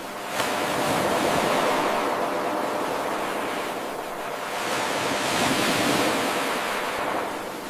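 Ocean surf washing in, the noise swelling and ebbing twice, with a small click about half a second in where the 8-second loop of the recording restarts.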